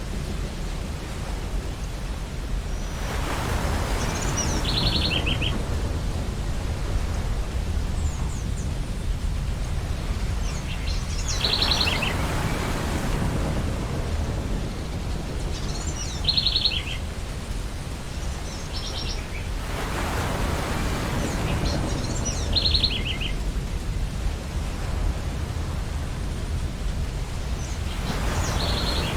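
Ocean surf on a beach: waves break and wash in roughly every eight seconds over a steady low rumble. About every six seconds a seagull gives a short run of rapid calls.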